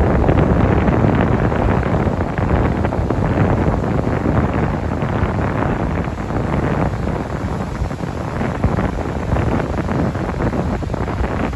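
Strong wind buffeting the microphone: a loud, steady rumbling rush that rises and falls a little with the gusts.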